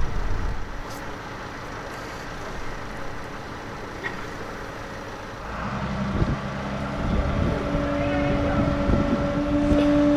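A large engine running, growing louder about halfway through, with a steady whine setting in and holding.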